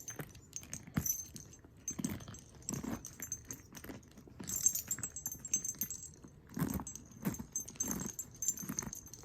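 Leather satchel being handled and opened: its metal hardware clinks and jingles, with rustling and soft knocks of the leather.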